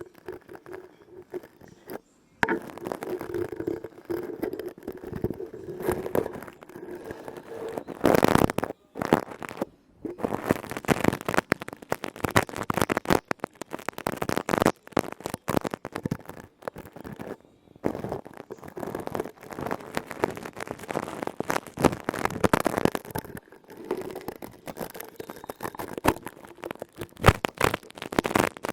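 Close-miked ASMR tapping and crackling: a dense patter of quick small taps and clicks, broken by a few short pauses.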